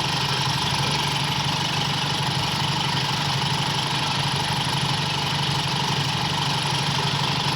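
Toyota Kijang petrol engine idling steadily with an even beat, running fairly smooth ("lumayan anteng") on a freshly set distributor and contact points and an MCI Double Power ignition coil.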